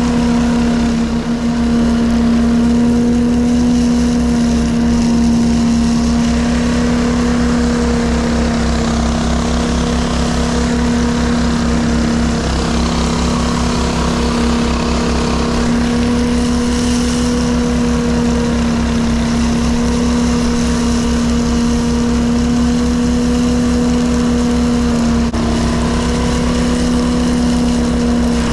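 Straw blower's engine running steadily at a constant speed, with an even drone and a fast low throb from its firing.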